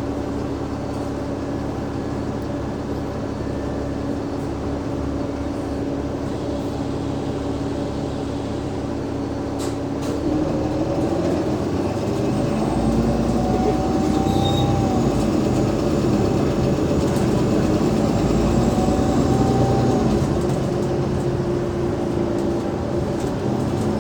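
Alexander Dennis Enviro500 MMC bus's Cummins ISL diesel running steadily with a constant hum. About ten seconds in it gets louder as the bus accelerates, with rising whines from the ZF Ecolife automatic gearbox that drop back twice as it changes up.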